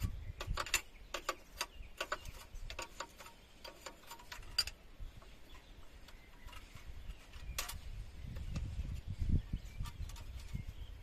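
Irregular sharp metallic clicks and taps of a spanner working on the injector fuel-line nuts of a KAMAZ diesel engine, thickest in the first few seconds with one louder click past the middle. A low rumble, like wind or handling noise on the microphone, comes in near the end.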